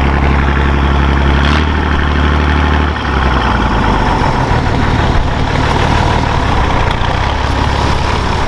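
Off-road vehicle engine running steadily close by. Its note changes about a second and a half in, and again at about three seconds, after which it runs rougher and less evenly.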